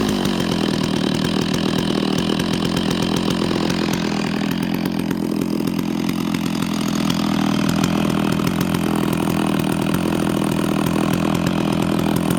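Stihl MS660 two-stroke chainsaw, with a dual-port muffler and a 36-inch bar, idling steadily. The idle is set a little high.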